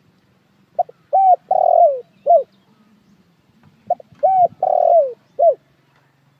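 Spotted dove cooing: two phrases of about four coos each, one starting just under a second in and the next about four seconds in. Each phrase has a short opening note, two longer coos and a short closing coo that falls in pitch.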